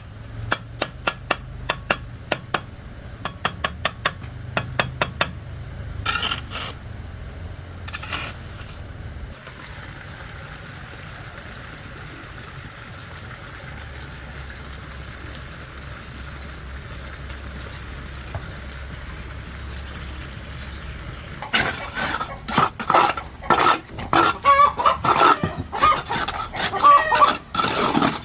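A quick run of sharp clicks, about four a second, for the first five seconds, then a quieter stretch. Over the last seven seconds poultry call loudly, chickens clucking with geese honking among them.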